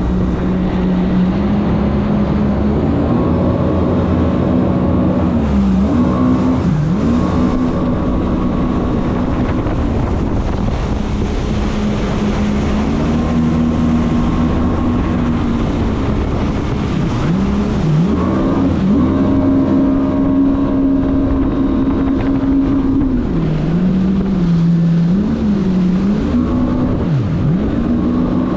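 Jet ski engine running hard, its pitch dropping and climbing back several times as the throttle is let off and reopened while the craft is turned.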